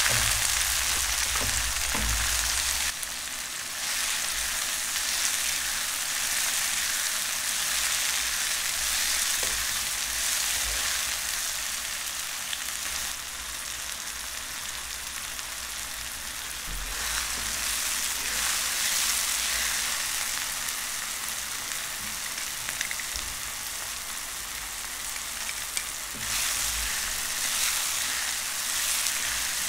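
Chopped tomatoes and onions sizzling in hot oil in a nonstick pan, with a silicone spatula stirring them. The sizzle is steady, growing quieter and louder again a few times.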